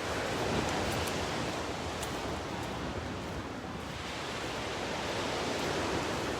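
Big ocean waves breaking on the beach, a steady rushing surf that swells and eases.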